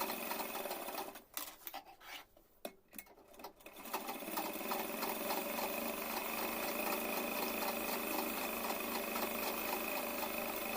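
Sewing machine stitching a strip of fabric. It runs in short stop-start spurts over the first few seconds, then runs steadily with an even, rapid ticking.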